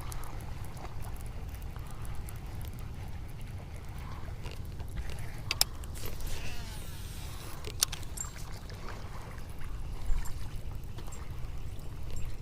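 Wind rumbling on the microphone and water lapping against a bass boat's hull, with two sharp clicks about five and a half and eight seconds in.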